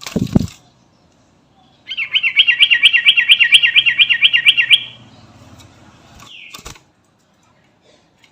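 Yellow-vented bulbul (trucukan) singing a fast run of about fourteen repeated warbled notes lasting about three seconds, then one short falling note. A brief thump at the very start.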